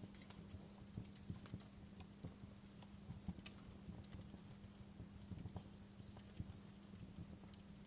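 Wood fire crackling in a fireplace: faint, irregular small pops and snaps over a low steady hum.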